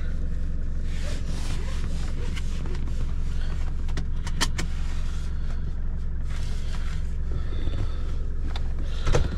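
Car engine running steadily, heard from inside the cabin as an even low hum. A couple of sharp clicks about halfway through.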